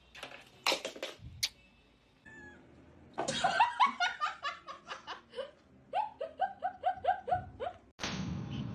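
A cat meowing over and over in a quick string of short calls, each dipping slightly in pitch, after a few sharp clicks.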